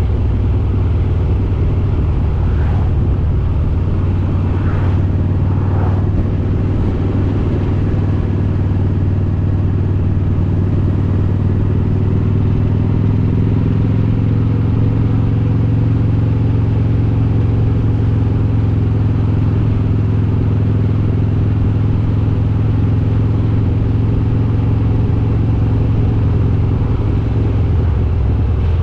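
Harley-Davidson Road King's S&S 95-cubic-inch V-twin with Super Stock heads running steadily under way, a low, even engine drone that holds its pitch throughout.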